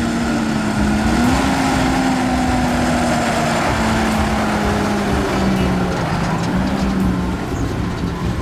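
Heavy farm machinery's diesel engine running steadily under load, its pitch rising slightly about a second in and then sinking gradually lower from about five seconds in.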